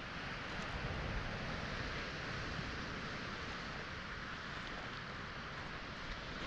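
Waves breaking and washing on a pebble shore, a steady rush that swells over the first few seconds and then eases.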